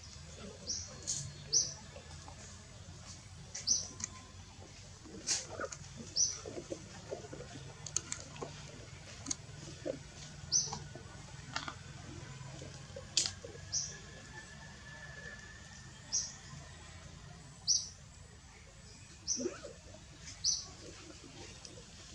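A small bird chirping repeatedly, short sharp high calls about once a second, with faint rustling underneath.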